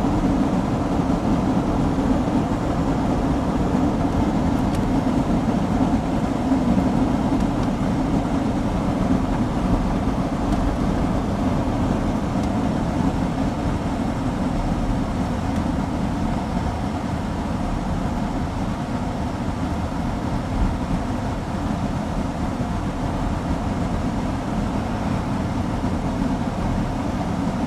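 Steady road and engine noise inside a moving car, a constant low rumble.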